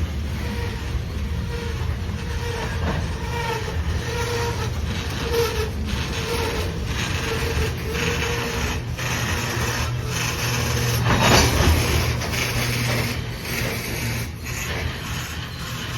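Loaded freight cars of a local train rolling slowly past while being shoved backward: a steady low rumble of wheels on rail with repeated clicks and knocks and an on-and-off squeal, swelling loudest about eleven seconds in.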